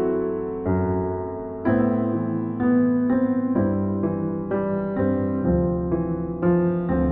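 Slow, gentle solo piano music: chords and notes struck every half second or so and left to ring and fade.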